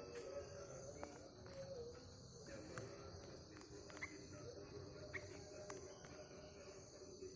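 Faint outdoor ambience: a steady high insect drone with scattered short bird chirps every second or so.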